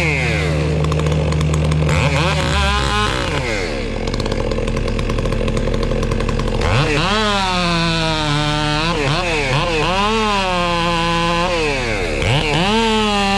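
Chainsaw running and being throttled up and down again and again, its pitch rising and falling, over a steady low engine drone.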